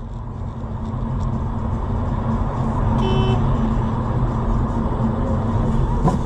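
A car engine and road noise while driving, a steady low rumble. A brief beep-like tone sounds about three seconds in, and there is a sharp click near the end.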